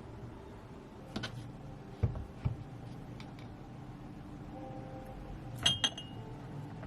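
Glass and dishware clinking and knocking: a few light knocks spread through, then the loudest two clinks near the end that ring briefly.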